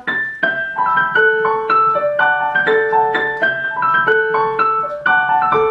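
Piano playing a short melody over chords, a tune played for the listener to judge whether it is in a major or a minor key; the phrase starts over about five seconds in.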